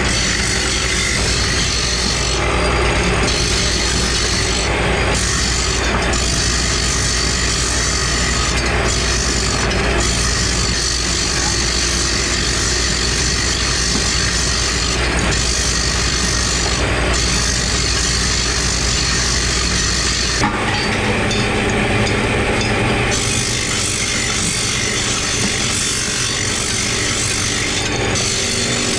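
Workshop power tool running steadily while working material, with a change in its sound about twenty seconds in.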